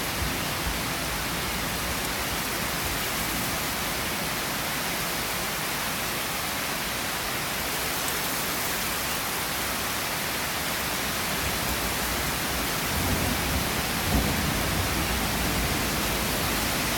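Heavy rain falling during a thunderstorm, a steady hiss. From about thirteen seconds in, a low rumble rises under it, with a brief thump a second later.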